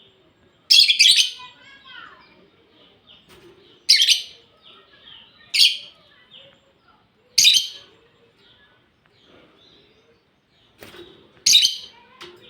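Lovebirds chirping: five short bursts of shrill, high-pitched calls at uneven intervals, with faint softer chatter between them.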